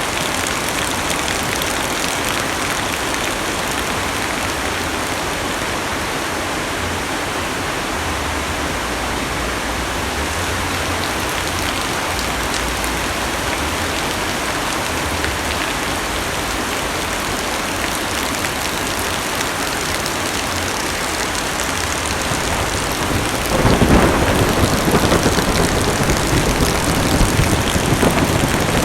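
Heavy rain falling on a car's roof and windows, heard from inside the cabin: a steady hiss of drops that turns louder and deeper about five seconds before the end.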